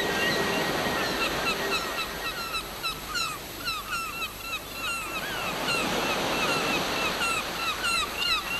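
Many short, squawking seabird calls, likely gulls, overlapping one another over the steady wash of surf; the calls start about a second in and come thicker toward the end.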